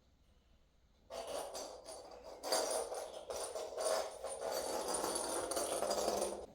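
A dense jingling rattle starts about a second in and stops abruptly near the end.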